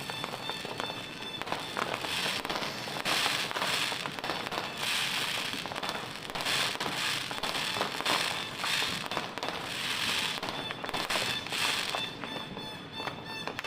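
Fireworks and firecrackers going off in a continuous run of overlapping bangs and crackling.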